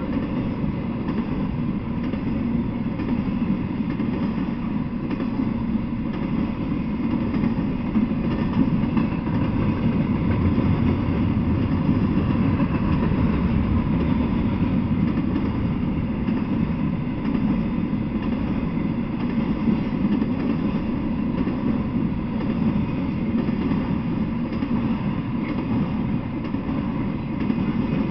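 Intermodal freight train passing close by: the steady rumble and rattle of its cars and wheels on the rails, continuous and unbroken.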